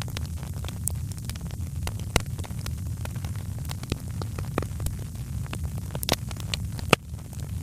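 Wood fire crackling: irregular sharp pops and snaps over a steady low rumble, with one louder pop near the end.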